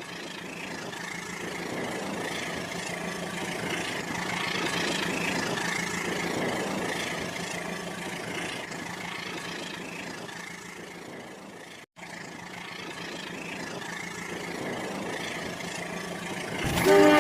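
Rail King toy train running with a steady mechanical hum. A loud horn tone starts right at the end.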